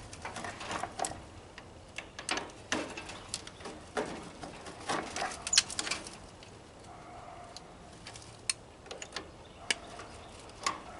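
Scattered metal clicks and knocks as a brass gas-line fitting on a barbecue grill is twisted and worked loose by hand, with a quieter stretch in the middle.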